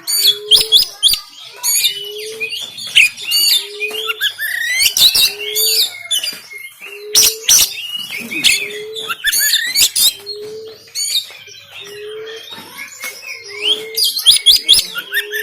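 Oriental magpie-robin (kacer) singing a fast, varied song of whistles, harsh rough notes and sharp clicks. Underneath, a short low rising note repeats about once a second.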